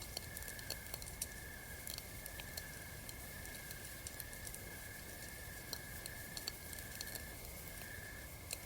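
Campfire crackling: irregular sharp pops and snaps of varying loudness over a soft steady hiss, with a steady high pulsing trill behind it.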